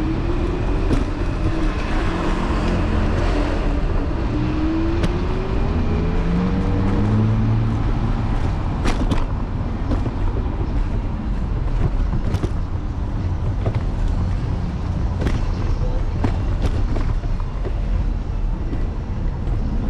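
City street traffic heard from a moving electric scooter, with steady low rumble of road and wind noise on the handlebar-mounted microphone. A vehicle's engine rises in pitch over the first several seconds, and a few sharp knocks come at intervals.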